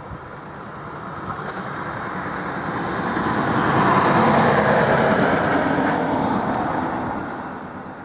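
A train passing by: a rushing rumble that builds to its loudest about halfway through and then fades away.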